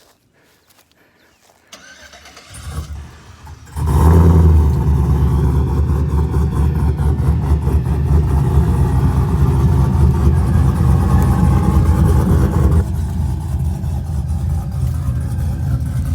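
A cammed 2008 Chevy Silverado engine, fitted with long-tube headers, no catalytic converters and a 3-inch Magnaflow exhaust, cranks about three seconds in. It catches with a loud flare and then idles steadily, settling a little quieter near the end.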